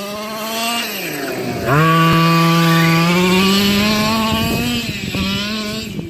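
Small two-stroke gasoline engine of a 1/5-scale Losi monster truck XL running. It eases off about a second in, then opens up sharply to full throttle, its pitch climbing slowly for about three seconds before it backs off again near the end.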